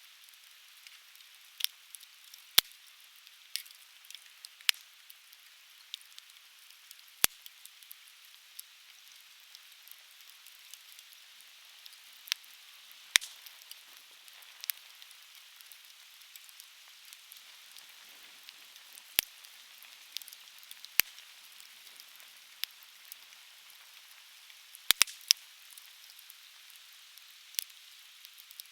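Conifer firewood burning, crackling with sharp, irregular pops every second or so over a faint steady hiss. A few pops stand out louder, including a quick double pop near the end.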